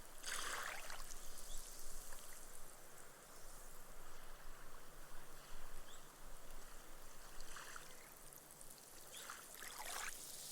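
Small, gentle waves washing up onto a sand beach, the water fizzing as it soaks into the sand and the foam dies away. One wash comes about half a second in and two more near the end, over a steady hiss.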